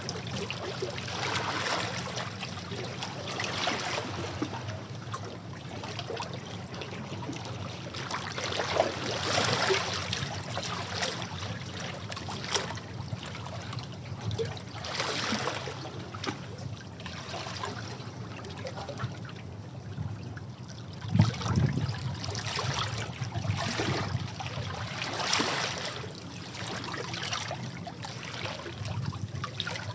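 Sea waves washing against and splashing over rocks: a continuous rush of water that swells in irregular surges every few seconds, with one stronger surge about two-thirds of the way through.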